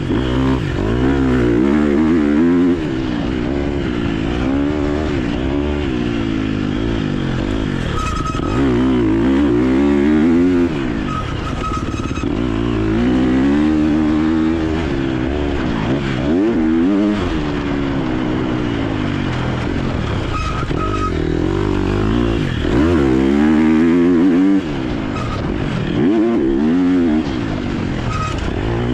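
KTM 250 SX-F motocross bike's single-cylinder four-stroke engine revving hard and backing off over and over, its pitch climbing and dropping with the throttle and gear changes.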